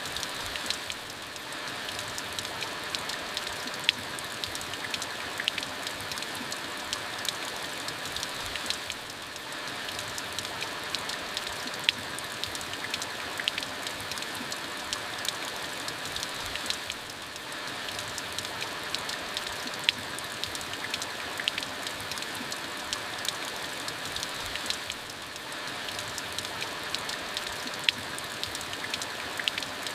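Steady rain: a dense, even hiss with frequent sharp taps of individual drops striking a surface. It eases slightly for a moment about every eight seconds.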